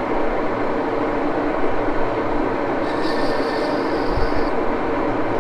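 Axelson lathe running steadily, its gears whirring, as a high-speed steel cutoff blade bevels the end of a knurled nut. A higher-pitched cutting whine comes in about three seconds in and stops about a second and a half later, and low knocks follow near the end.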